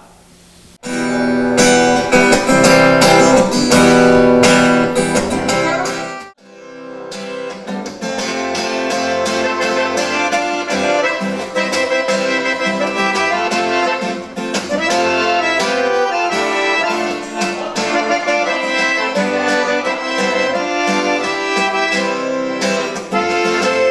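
Band playing the instrumental intro of a sertanejo song, led by accordion over guitar, with no singing yet. It starts about a second in with a long held chord, breaks off briefly around six seconds, then settles into a steady rhythm.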